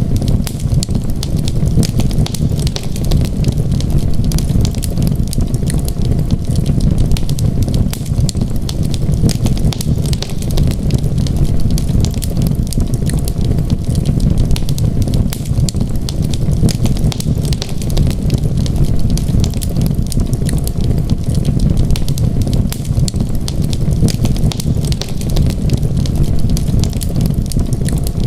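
Wood fire burning in a fireplace, crackling with many small, irregular pops over a steady low rumble.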